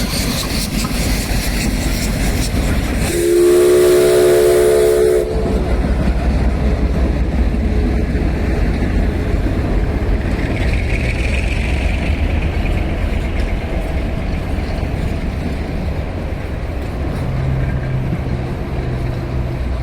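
A train hauled by a Mallet 2-6-6-2 steam locomotive rumbles steadily past, and about three seconds in the whistle sounds one chord blast lasting about two seconds. A loud hiss dies away suddenly just after the whistle ends.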